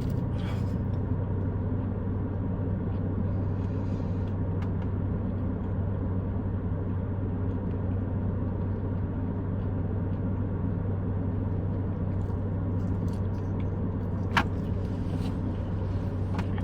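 Steady low hum of a car, heard from inside the cabin, with one short sharp click about fourteen seconds in.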